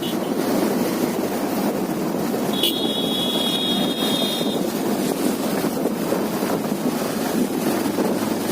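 Wind rushing over the microphone and a Bajaj Pulsar 220F motorcycle running while riding, with a horn sounding steadily for about two seconds a few seconds in.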